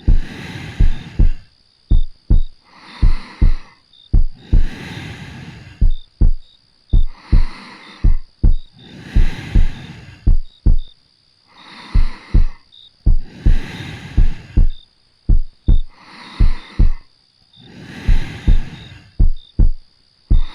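Slow, steady heartbeat, each beat a double lub-dub thump, a little under one beat a second. Soft, slow breathing in and out swells between the beats every couple of seconds.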